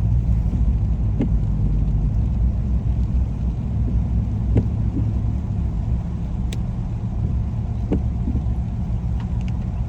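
Car driving along a rain-wet road, heard from inside the cabin: a steady low rumble of road and engine noise, with a few faint ticks.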